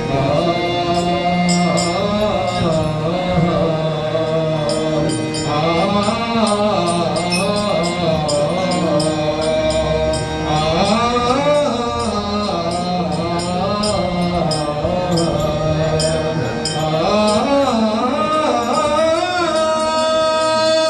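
A man singing a long wordless melodic passage in Marathi devotional style, holding and bending long notes, over a steady drone of held accompanying notes and light percussion strokes.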